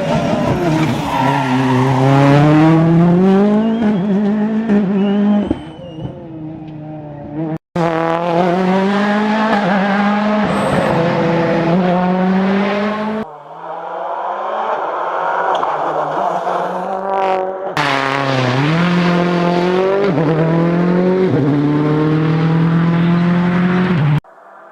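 Rally cars' engines revving hard on a special stage, the pitch climbing through each gear and dropping at every upshift, over several separate passes. A shorter, lower stretch in the middle sounds more like a car coasting off the throttle.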